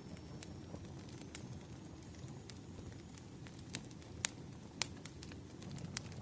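Wood fire burning, with irregular sharp crackles and pops over a steady low rumble. The two loudest pops come a little past the middle.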